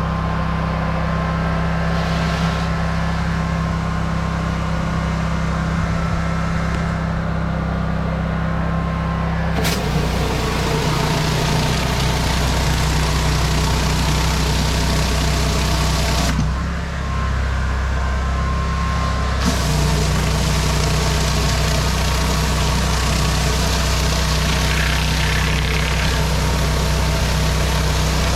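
Petrol pressure washer engine running steadily, with the hiss of its high-pressure water spray starting about ten seconds in, cutting out for about three seconds near the middle, then starting again.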